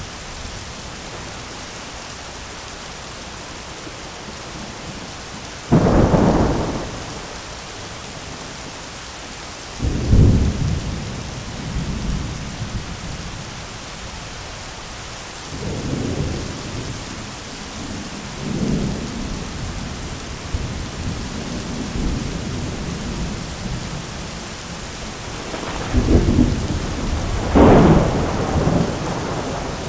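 Thunderstorm: steady rain with repeated thunder. A sudden crack comes about six seconds in and another near ten seconds, lower rumbles roll in the middle, and two loud claps come near the end.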